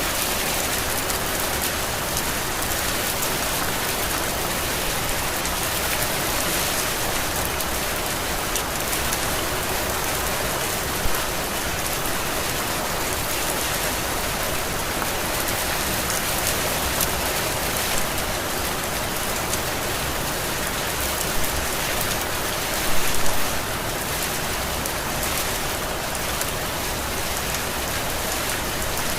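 Steady heavy rain falling on surfaces, a constant hiss with a few louder drops or splashes about eleven seconds in and again around twenty-three seconds.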